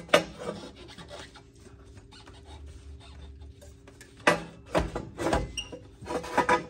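Metal exhaust parts being worked loose by hand: rubbing and scraping with scattered metallic knocks and clunks, a cluster of them past the middle and another near the end.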